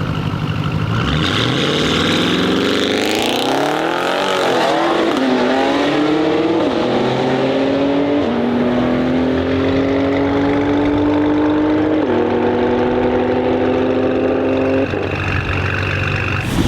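Audi RS6 C8's twin-turbo V8, with the particulate filter deleted, accelerating hard: the engine note climbs steeply, then goes up through several gears, each upshift a sudden drop in pitch followed by a slower climb. The engine note stops suddenly near the end.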